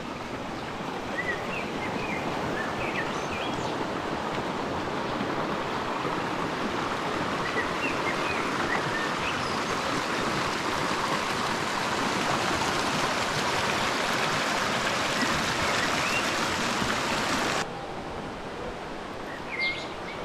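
A river rushing steadily over rocks, swelling a little louder over time, with a few faint bird chirps. The water noise drops sharply near the end.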